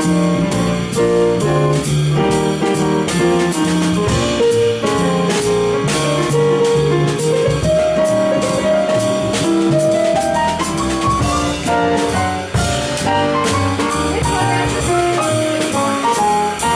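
Instrumental break from a live jazz-blues band: a melodic lead line over piano, bass and a drum kit keeping a steady beat, the lead climbing in pitch from about halfway through.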